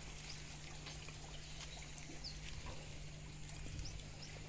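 Faint ambience of small birds giving scattered short chirps over a steady, high-pitched insect drone.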